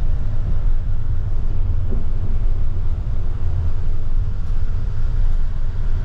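Steady low rumble of a vehicle's engine running, heard from on board.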